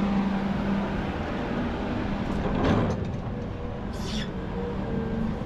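Volvo 550 excavator's diesel engine running steadily with a low hum while it digs, swelling briefly about halfway through, with a short high-pitched sound near four seconds in.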